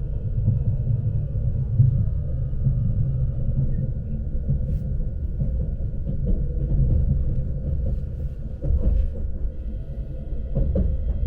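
Steady low rumble of a Lastochka electric train running along the track, heard inside the carriage, with faint steady high tones above it. A few faint clicks come near the end.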